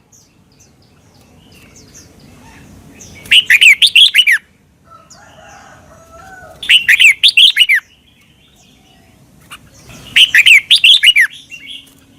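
Red-whiskered bulbul singing: three short phrases of quick, sliding whistled notes, each about a second long and about three seconds apart.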